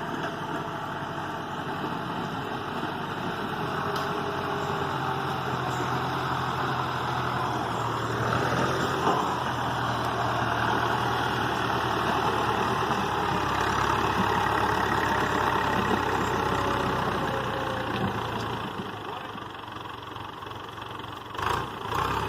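A steady engine running, like a vehicle idling or driving, under a broad hiss. It eases off near the end.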